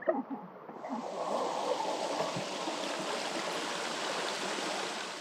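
Steady rush of flowing water, starting abruptly about a second in and holding even.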